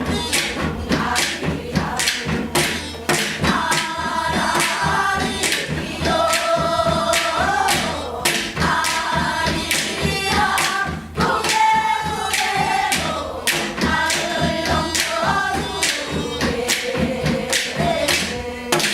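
Gyeongseodo sori, Korean folk singing with long held, wavering notes, possibly by several voices, over frequent sharp percussion strikes.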